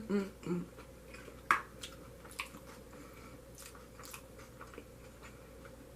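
Close-miked mouth chewing sounds: wet smacks and clicks about once a second while food is chewed, with a few short low mouth noises right at the start.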